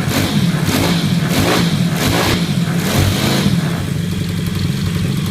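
160 cc pit bike engine with a single-valve Bishop cylinder head, revved in quick throttle blips about twice a second, then dropping back to a steady idle about four seconds in.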